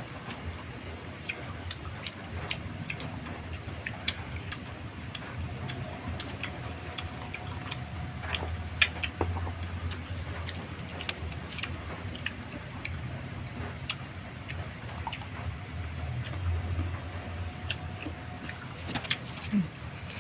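Someone eating mango: scattered small wet clicks and smacks of chewing over a low, steady rumble, with one louder click about nine seconds in.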